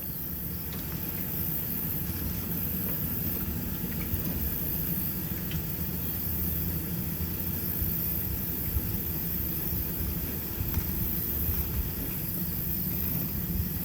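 Steady low rumble with an even hiss from a Hydrohoist floating boat lift as its front tanks finish lowering.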